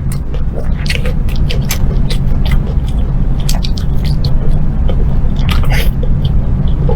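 Close-up chewing and biting of food, with many quick, irregular crisp crunches and wet smacks over a steady low hum.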